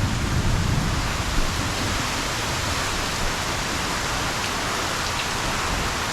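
Heavy thunderstorm downpour, a steady loud hiss of rain. A low rumble of thunder dies away about a second in.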